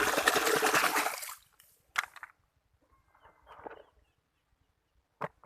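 Water splashing over a muddy toy truck as it is washed, stopping about a second and a half in, followed by a couple of light knocks and faint handling sounds.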